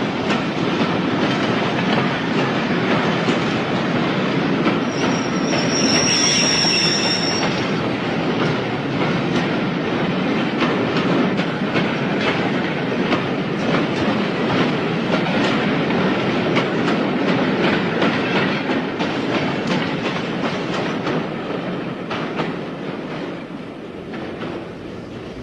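Train running on rails: steady rumble and clatter of wheels over the track, with a brief high squeal about six seconds in. The sound fades over the last few seconds.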